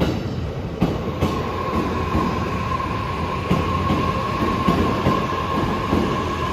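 JR East E259 series Narita Express electric train rolling slowly into a station platform, wheels clacking over rail joints. A steady high-pitched squeal from the running gear sets in about a second in, as the arriving train slows.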